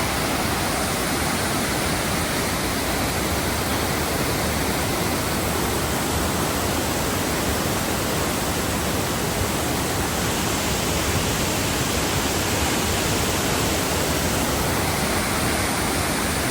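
Mae Ya Waterfall's water falling in a steady, unbroken rush.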